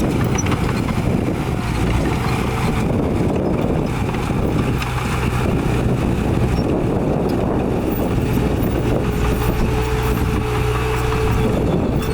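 Heavy diesel earthmoving machinery running steadily at a work site, with a thin whine that comes and goes over the engine.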